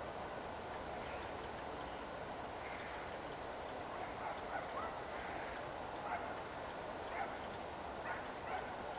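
Short bird calls, coming more often in the second half, over a steady outdoor hiss.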